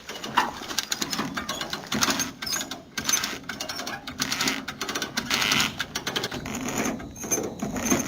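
Hand-operated cable come-along ratchet clicking rapidly in repeated strokes as its handle is worked, winching the cable tight under load.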